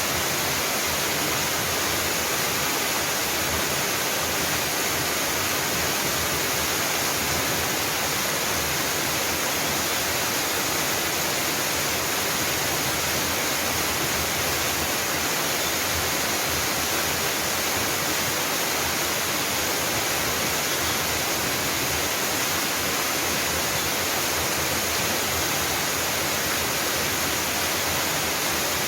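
Mountain waterfall: water pouring and splashing in a steady, even rush.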